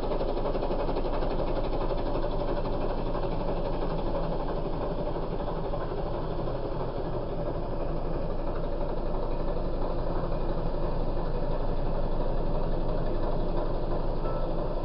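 Diesel engine of earth-moving machinery running steadily with a knocking chug.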